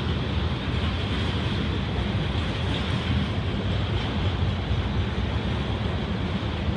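Freight train of tank cars rolling past close by: steady noise of steel wheels on rail, with no break or change.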